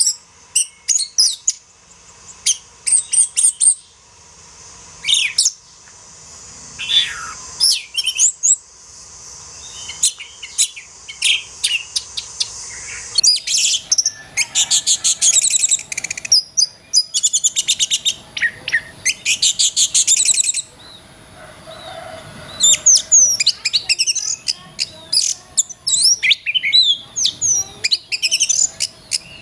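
Oriental magpie-robin (kacer) song: a varied run of loud, high chirps and whistled glides, broken by long fast trills of rapidly repeated notes in the middle, played as a masteran training recording for caged songbirds.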